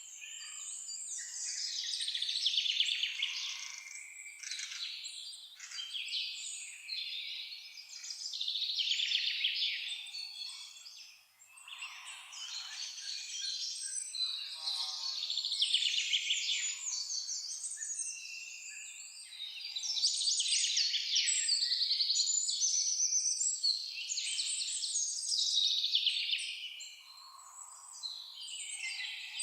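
Several songbirds singing in overlapping phrases, one song following another with hardly a pause, dipping briefly about eleven seconds in and again near the end.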